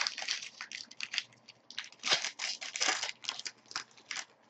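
Foil wrapper of a hockey card pack being torn open and crinkled: a run of sharp crackles, with a longer tearing rip about two seconds in.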